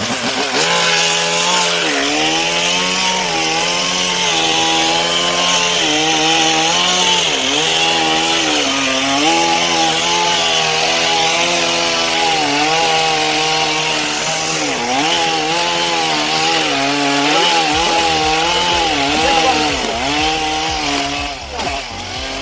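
Chainsaw cutting wood, the engine note dipping and picking back up again and again as the chain bites under load.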